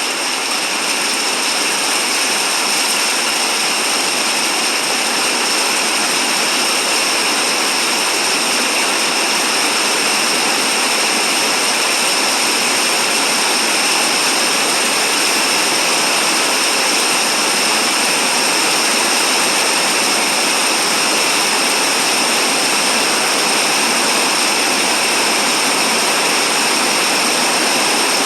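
Rain pouring down: a loud, steady hiss that swells slightly in the first second and then holds even.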